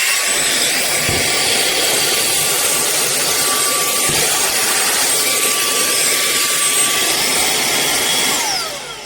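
Cordless handheld vacuum cleaner running at its highest power setting: a steady high whine over a rush of air. The whine steps up in pitch right at the start, then winds down with falling pitch near the end.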